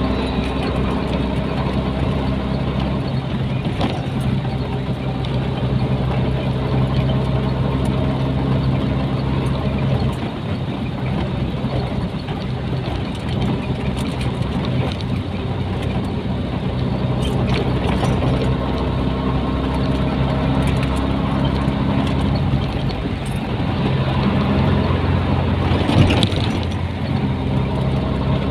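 Nissan Diesel container truck's diesel engine running steadily under way, with road noise. The engine note shifts a few times, and there is one brief sharp sound near the end.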